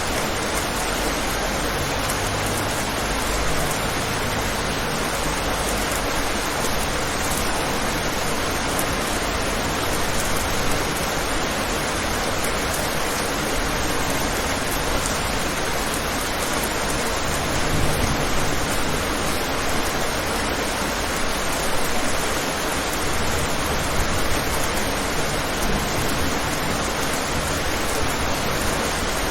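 Steady rain, an even hiss with slight low rumbles and no distinct drops or thunder.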